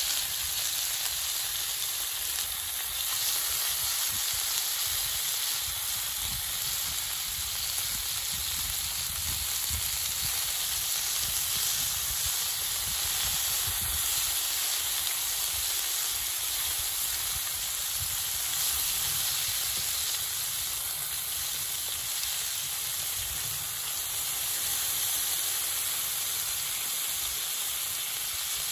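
Pork belly sizzling steadily on a cast-iron griddle over a wood fire, a continuous frying hiss with a low rumble underneath.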